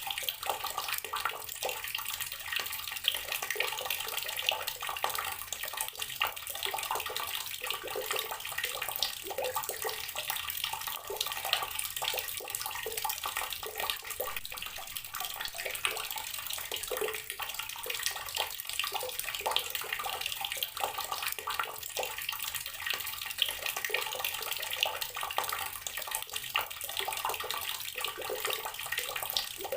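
Outdoor water tap running steadily, its stream splashing and spattering with no pause.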